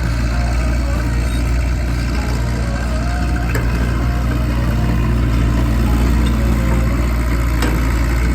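Large engine running steadily at a constant speed, low and loud, with a few faint short squeaks over it.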